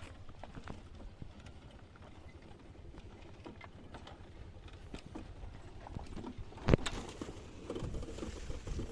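Scattered light knocks and taps over a low rumble, with one sharp, loud knock about two-thirds of the way through.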